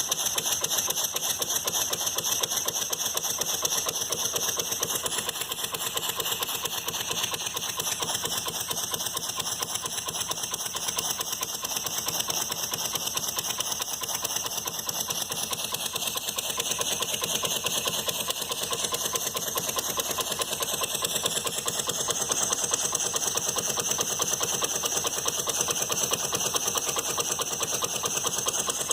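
Handmade 1930s model steam engine running steadily on steam from a stovetop pressure cooker: a fast, even clatter of strokes over a steady high hiss. It is running smoothly now that the kink is out of its steam line.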